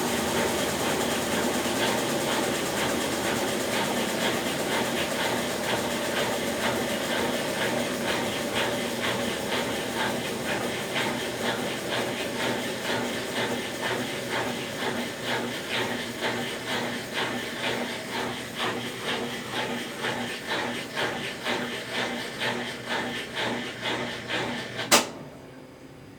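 Consul Facilite 10 kg top-loading washing machine running its wash stage after a mechanical overhaul, a steady mechanical churning with a rhythmic pulse of about two beats a second that grows more distinct as it slowly fades. Near the end a sharp click, and the machine goes quiet.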